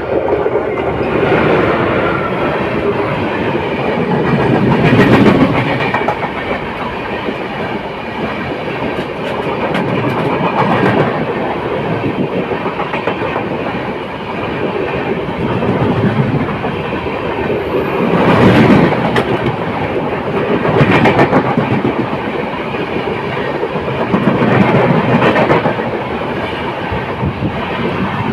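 LHB passenger coach of an express train running along the track: a steady rumble and rattle of wheels on rails that swells louder every few seconds.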